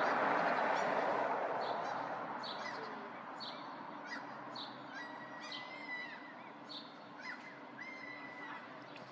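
Birds calling: a run of short high chirps, about two a second, with a few longer drawn-out whistles in the middle. Under them is a haze of background noise that fades over the first few seconds.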